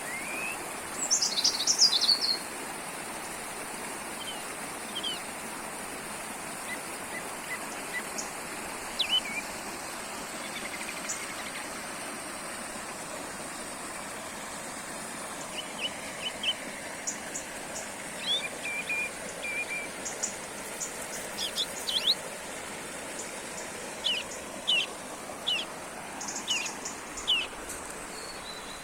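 A small forest brook babbling steadily while songbirds call and sing over it: scattered short, high chirps, a loud burst of song about a second in, and a run of quick repeated calls near the end.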